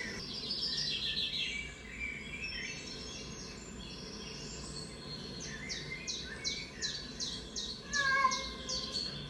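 Songbirds chirping and singing, played through a TV's speaker, with a run of quick repeated notes, about three a second, in the second half.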